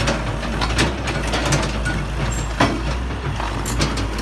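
Heavy diesel equipment engine running steadily, with scattered sharp knocks and clicks over it.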